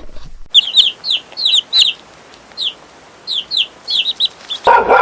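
A bird chirping: about fifteen short, high chirps, each falling in pitch, in quick clusters of two or three. Near the end a louder, lower animal call cuts in.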